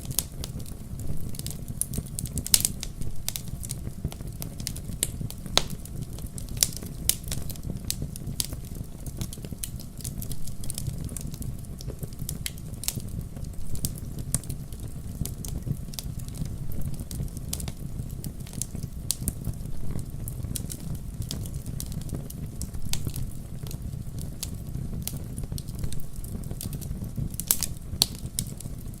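Wood fire burning steadily in a fireplace, with a low rumble under frequent irregular sharp crackles and pops.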